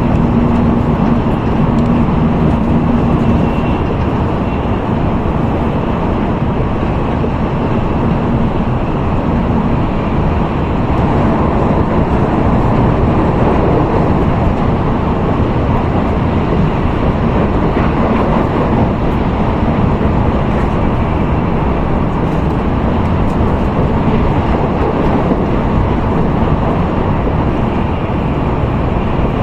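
N700A Tokaido Shinkansen running at speed, heard inside the passenger car: a steady rumble of running noise that is strongest in the low and middle range, with a faint hum in the first few seconds.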